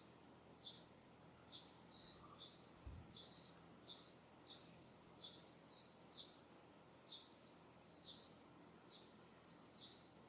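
Faint, distant bird repeating short high chirps about once a second, over a quiet steady hiss.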